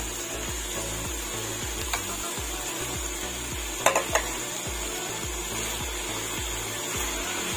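Chopped pork sisig sizzling as it fries in a nonstick pan, with sliced green chilies stirred in by a silicone spatula. A light knock of the spatula on the pan comes about two seconds in, and a louder cluster of knocks about four seconds in.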